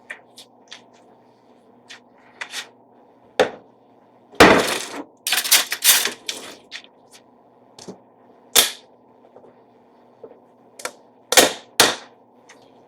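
Kitchen clatter of utensils, containers and a pot: a scattered run of sharp clinks and knocks, densest and loudest about four to six seconds in and again near the end, over a faint steady hum.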